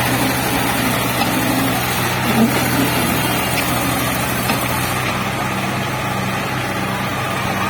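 Tractor engines running steadily under load as they pull against each other in a tractor tug-of-war, with voices of onlookers in the background.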